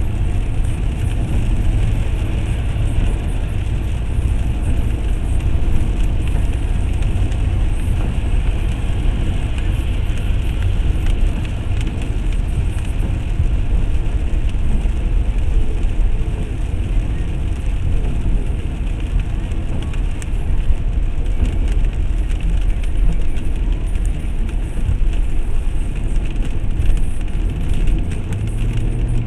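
Steady rumble of a car's engine and tyres, heard from inside the cabin.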